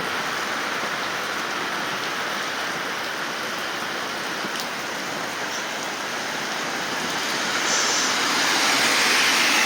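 Heavy rain pouring down, a steady dense hiss that grows louder about eight seconds in.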